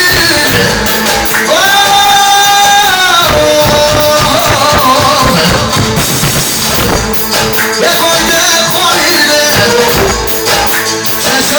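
A song: a singer over a full band backing, holding one long note about a second and a half in.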